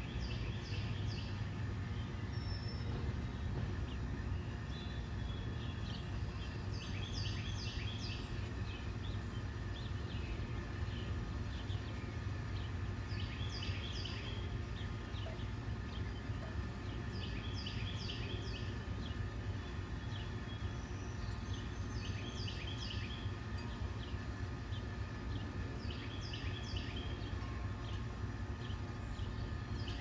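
A songbird singing short phrases of a few quick high notes, repeated every four to six seconds, over a steady low rumble.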